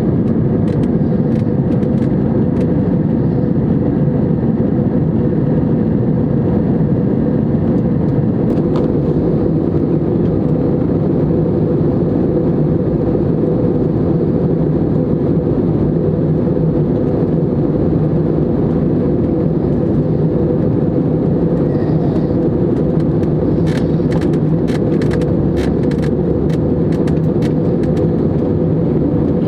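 Airbus A320neo airliner in flight, heard from inside the cabin: a steady, loud roar of engines and airflow that keeps one level throughout. A run of light clicks or rattles comes near the end.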